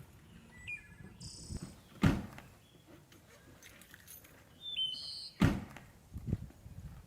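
Two loud thuds about three seconds apart, with short bird chirps between them.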